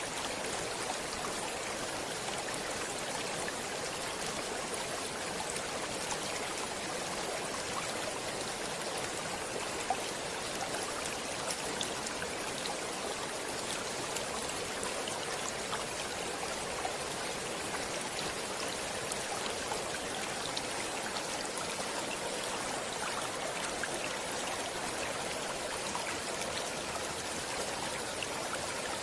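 Stream water running steadily over rocks, a constant rushing with many small splashes and trickles.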